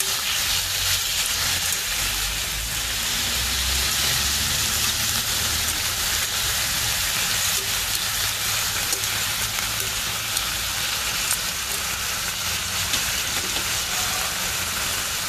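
Chicken pieces frying in hot oil with onion and garlic in a stainless steel pan, a steady sizzle as they are sautéed to brown, with a few faint clicks as the pieces are turned with metal tongs.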